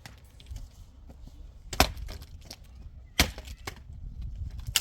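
Sharp knocks from building work. There are two loud blows about a second and a half apart, a third near the end, and fainter knocks in between.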